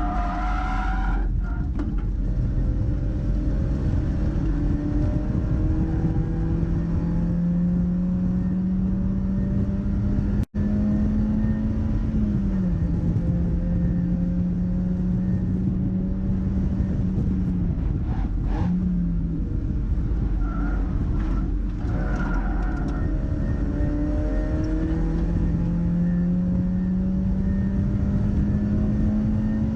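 Mazda MX-5's engine under hard acceleration on a race circuit, its pitch climbing steadily through long pulls and falling sharply at each lift or gear change, over heavy road and wind rumble. The audio cuts out for an instant about ten seconds in.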